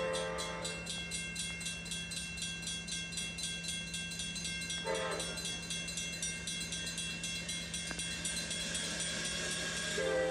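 Amtrak passenger train running, with short horn-like tones near the start, about halfway through and at the end, over a fast, even ticking and a steady hum.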